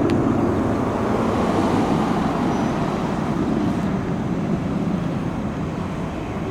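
Jet airliner engines heard from a distance as a steady low rumble, with one short click about a tenth of a second in.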